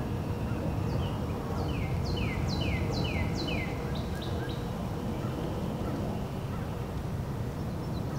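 A bird sings a quick run of about five or six repeated, falling whistled notes starting about a second in, ending with a few shorter notes, over a steady low rumble of background noise.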